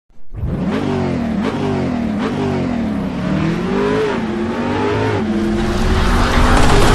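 An engine revving up and down over and over, its pitch rising and falling, growing louder toward the end.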